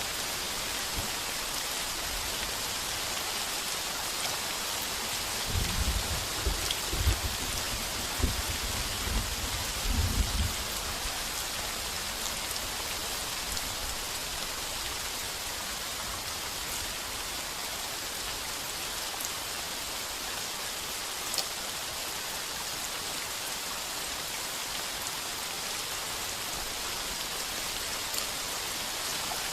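Heavy rain falling steadily on a tin roof, with a roll of thunder rumbling in several swells a few seconds in.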